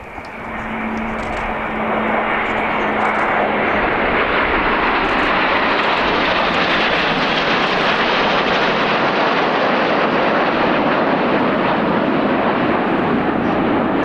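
Jet engine noise from a Boeing P-8 Poseidon flying past together with the Red Arrows' Hawk jets, building over the first two seconds and then holding loud and steady.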